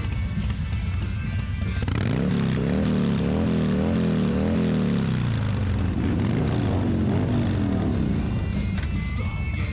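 Motorcycle engine revving up and down in quick repeated blips, strongest in the middle, over background music.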